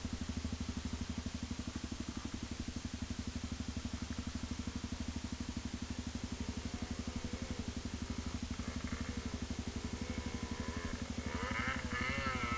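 Motorcycle engine running steadily at low revs with a rapid, even putting pulse. Music with a wavering, vibrato-like melody fades in from about halfway and is louder near the end.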